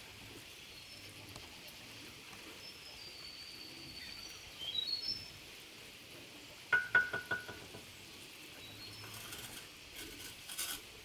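Birds chirping faintly over a steady outdoor hiss. About seven seconds in comes a quick run of five or six sharp, ringing clinks, with a few softer taps near the end.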